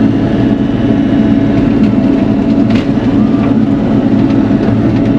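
Bobcat E42 mini excavator's diesel engine running steadily, a constant drone.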